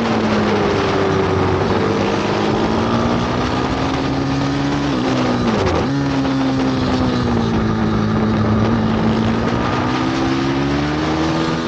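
Bucci F6 pit bike engine running hard around a track, its note slowly rising and falling with the throttle, with a quick drop and pick-up about five to six seconds in. Wind noise on the microphone runs under it.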